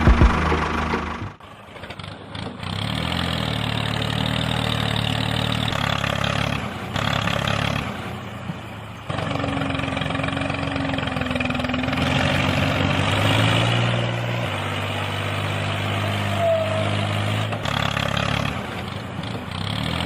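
An engine running, its note holding steady and then shifting up or down every few seconds, with a brief drop about a second in.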